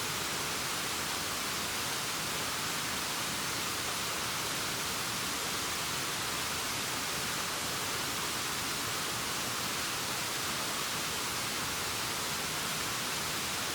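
Steady, unbroken hiss of falling water from a waterfall, even and mostly high-pitched, with no changes.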